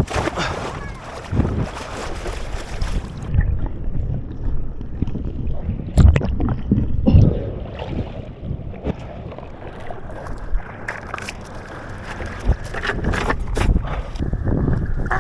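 Wind buffeting the microphone on a small boat in choppy water, with several sharp knocks, the loudest about six and seven seconds in.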